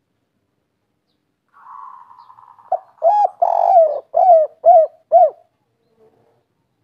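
Spotted dove (tekukur) singing a 'kuk 3' cooing phrase: a soft hum, then a short note, a longer coo and three short evenly spaced coos to finish.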